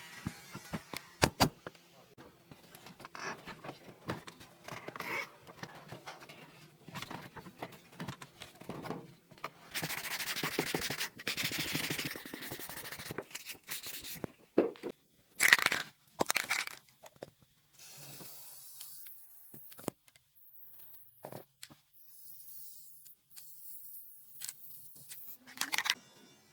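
Handcraft work on small parts: scattered clicks and taps, with a few seconds of scraping, tearing-like noise about ten seconds in and several louder short knocks a few seconds later.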